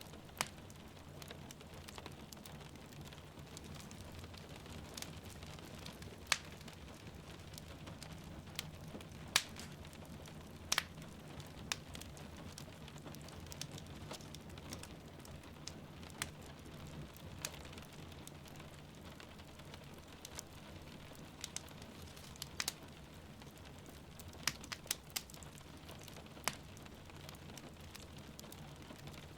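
Wood fire crackling, with sharp scattered pops about once a second or two, over a steady patter of rain.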